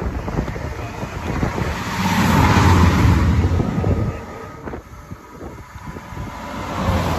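Diesel regional train passing beneath the bridge: a rumble of engine and wheels on rail that builds to its loudest about two to three seconds in, then fades, before a second train begins to grow louder near the end. Wind buffets the microphone.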